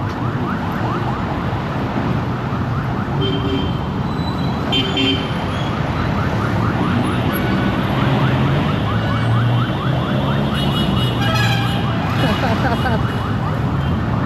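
Busy street traffic with engines running and a siren yelping in quick, repeated rising sweeps throughout.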